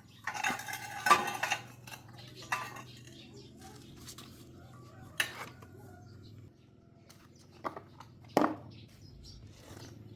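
Metal hand tools and parts clinking and clattering as they are handled. A busy run of metallic clinks comes in the first couple of seconds, then scattered single clicks and knocks, the loudest about eight seconds in.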